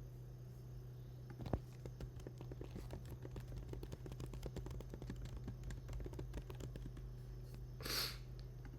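Typing on a computer keyboard: a run of quick, irregular light clicks over a steady low hum. A short breathy noise comes near the end.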